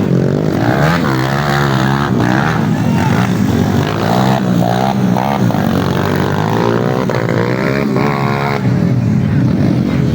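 Several motocross dirt bike engines revving as the bikes race, their pitch repeatedly rising and falling over a steady low drone.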